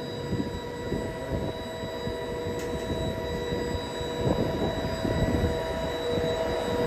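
Intercity passenger coaches rolling past close by: the wheels rumble and knock on the rails, with a steady high whine held over it. The sound grows slowly louder.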